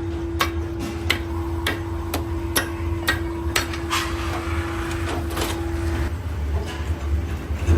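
Repeated hammer blows on metal, about two a second, over a steady machine hum. A steady tone in the hum stops about three-quarters of the way through.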